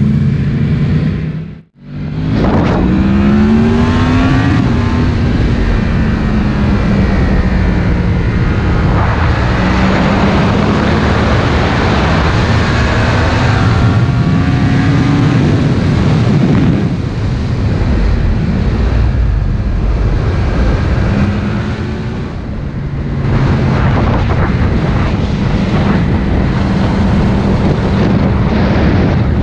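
Yamaha MT-10's crossplane inline-four with an Akrapovič slip-on exhaust, under way with the revs climbing in several rising pulls and falling back as the throttle is eased. The sound drops out briefly about two seconds in.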